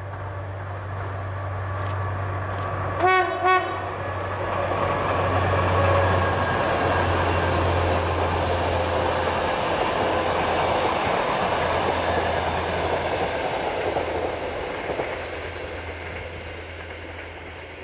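Adtranz DE2000 diesel-electric locomotive hauling an InterCity passenger train past: two short horn blasts about three seconds in, then the running noise of the locomotive and coaches swelling as the train goes by and dying away near the end.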